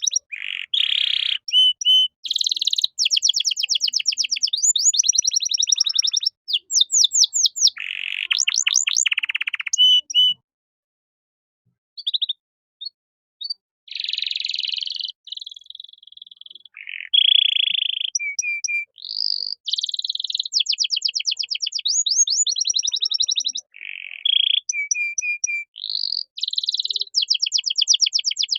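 Domestic canary singing a long song of rapid high trills and repeated rolling phrases, breaking off for a moment about ten seconds in before starting again.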